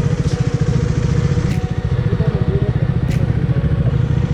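Motorcycle engine running steadily with a fast, even pulsing, its note neither rising nor falling.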